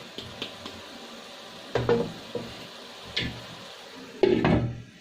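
Cookware knocking and clattering: a few sharp metal-and-wood strikes, the loudest near the end, over a faint steady hiss.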